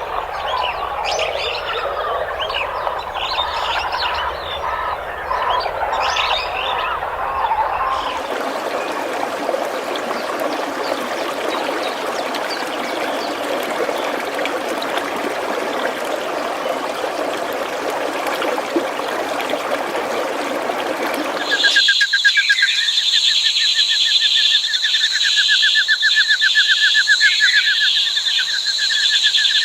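Rainforest animal sounds in three abruptly cut recordings. First comes a chorus of many short chirping calls; about eight seconds in it changes to a dense, even hissing chorus. About twenty-one seconds in, a loud, high, rapidly pulsing trill of steady pitch begins.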